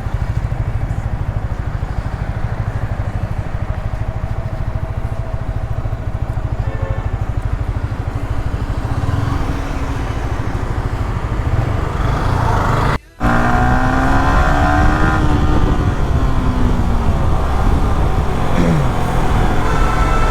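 Yamaha R15 V3's single-cylinder engine running under way, heard from the moving bike. The sound drops out for a split second about two-thirds of the way through, after which the engine's pitch rises and falls as the revs change.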